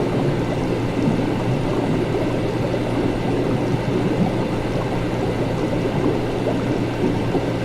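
Laboratory ambience: liquid gurgling steadily over a constant low machine hum.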